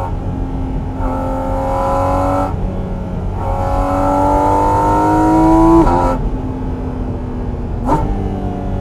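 Porsche 718 Cayman GT4 RS's naturally aspirated 4.0-litre flat-six, heard from the cabin, revving hard in two pulls with the pitch climbing. A gear change near 6 s drops the pitch, and a short sharp rev blip comes near the end.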